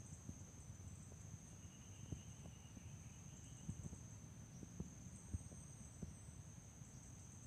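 Faint, steady, high-pitched chorus of insects, crickets or similar, over a low rumble with a few soft knocks.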